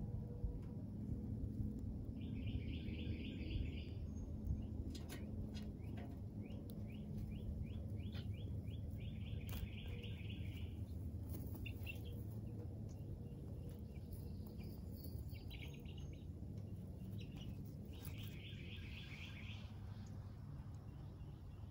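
Bird trills: several short, high, rapidly pulsed trills, each a second or two long, come every few seconds over a steady low background rumble.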